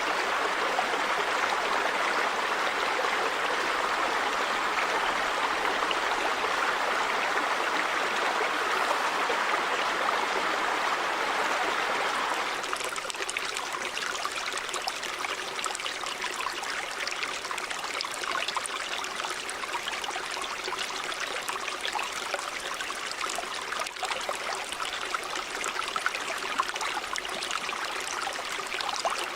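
Running river water, a steady rushing. About halfway through it shifts to a slightly quieter, splashier sound with more separate trickles and drops.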